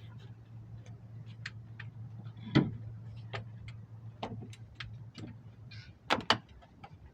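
Scattered clicks and knocks of things being handled, with one loud knock about two and a half seconds in and two more in quick succession near the end, over a low steady hum that cuts off just before them.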